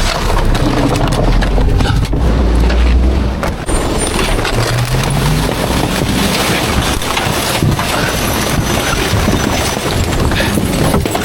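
Garbage truck running, a dense rumbling noise with a brief rising engine note about five seconds in.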